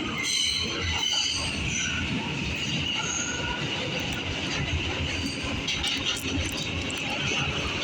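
R211A subway car running between stations, heard from inside the car: a steady rumble of wheels on rail with high wheel squeal that wavers in pitch.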